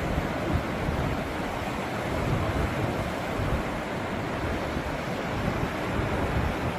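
Steady rushing noise with wind buffeting the microphone in uneven low gusts.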